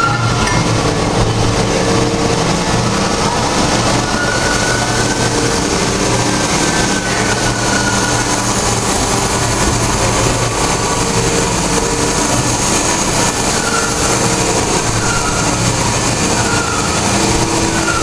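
Machine-shop machinery running loudly and steadily, with a constant hum and short high squeals every few seconds.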